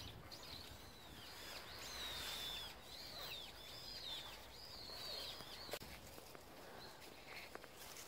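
Small birds chirping outdoors: a run of short, high, rising-and-falling calls through the first five seconds over a steady background. A single sharp click about six seconds in.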